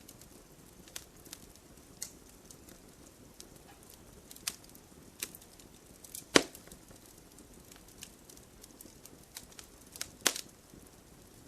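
Firewood burning with a soft steady hiss and irregular crackles and pops, two of them sharper and louder, about six seconds in and near the end.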